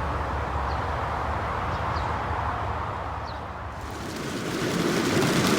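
Steady rain with a low rumble underneath. Near the end the sound changes to a brighter, hissing rain as the downpour picks up.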